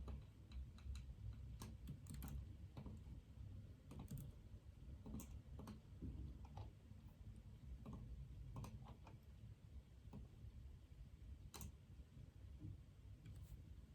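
Faint typing on a computer keyboard: sparse single keystrokes at irregular intervals, over a low steady room hum.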